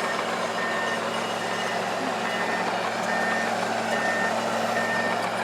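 Vehicle backup alarm beeping at a steady, even pace, over the steady hum of an idling engine.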